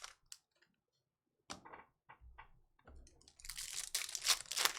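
Trading cards being handled: a few light clicks and taps, then a dry rustling slide of cards against each other, loudest near the end.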